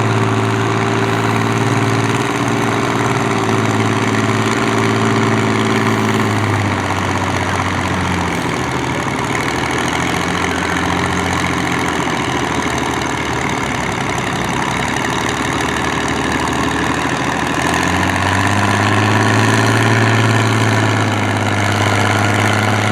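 1955 Allis-Chalmers WD45 tractor engine pulling a weight-transfer sled under load. Its note holds steady, drops and wavers about a third of the way in, then climbs again near the end.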